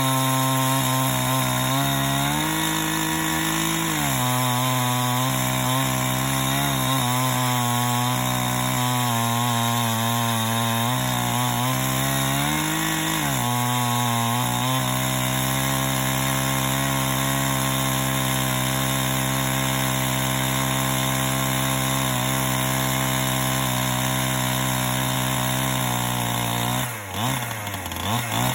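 Chainsaw with a chainsaw mill attached, running at high revs while ripping a log lengthwise into planks. Its pitch rises briefly twice, then dips sharply near the end before picking up again.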